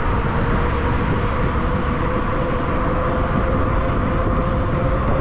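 Wind rushing over the microphone and fat tires rolling on pavement while riding a Zota Zephyr fat-tire e-bike, with a steady even hum.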